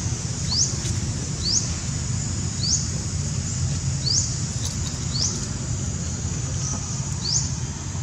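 Short, high, upward-sweeping chirps from a small animal, repeated about once a second, over a steady low rumble.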